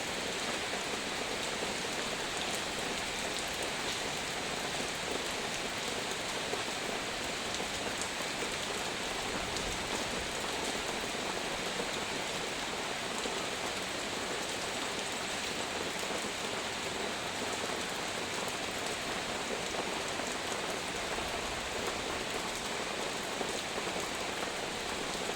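Heavy rain falling steadily, an even hiss of rain on surfaces with scattered drop ticks.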